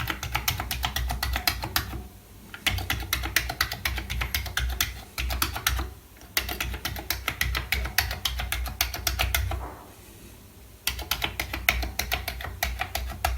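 Keys on a Commodore 64 keyboard being typed in quick runs of clicking keystrokes, with three short pauses between the runs: the freshly repaired keyboard being tested key by key.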